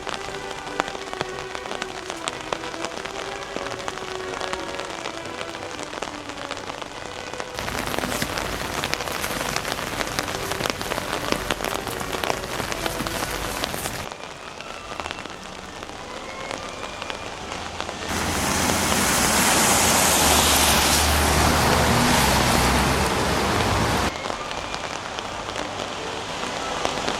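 Spring rain falling, many fine drops ticking on an umbrella overhead. The rain sound changes abruptly several times and is louder and fuller for several seconds near the end.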